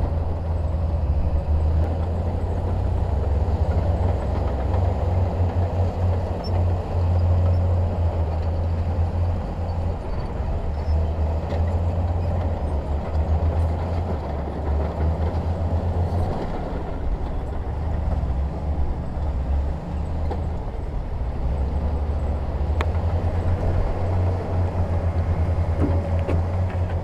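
Heavy diesel earthmoving machinery running steadily, a low engine rumble.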